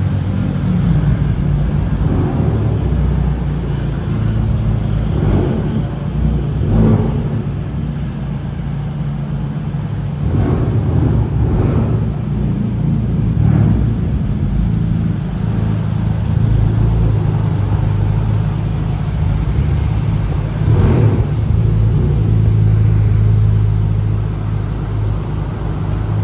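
Car engines running at idle, a steady low drone with a few short louder moments.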